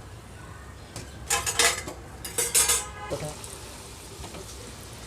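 Metal spoon clinking and clattering against the frying pan or a steel plate in two short bursts, as fried chilli fritters are lifted out of hot oil and drained. Faint sizzling of the frying oil goes on underneath.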